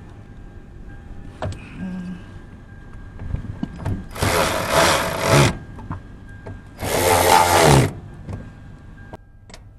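Handheld power tool driving the bolts of a fuel pump cover down, running in two bursts of about a second each, with light clicks of the tool and bolts between.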